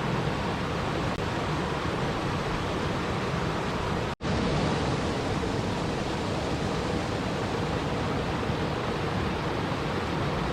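Steady, even rushing of water, like a continuous white-noise wash with no distinct drops or splashes. It cuts out for an instant a little over four seconds in, then resumes unchanged, as at an edit join.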